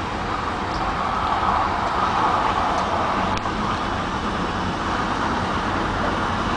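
Steady running noise of a moving passenger train heard from inside the carriage: an even rushing with a low rumble underneath.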